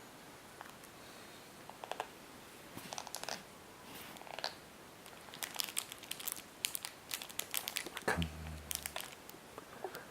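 Snack packaging crinkling and rustling as a small child handles it, in irregular bursts that get busier about halfway through. A short low vocal sound comes about eight seconds in.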